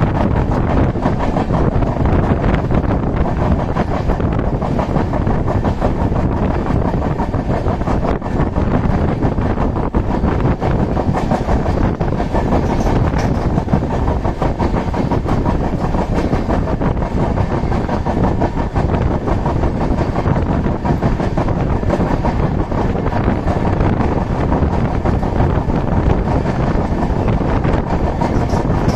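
Indian Railways passenger coach running at speed, heard from its open window: a steady, loud rumble of wheels on the rails.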